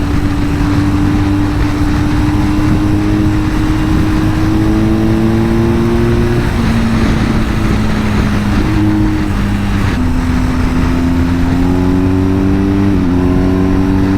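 BMW R1250 GS Adventure's boxer-twin engine under way, its pitch climbing slowly and dropping in steps at gear changes, about six seconds in and again near the end, over heavy wind rumble on the microphone.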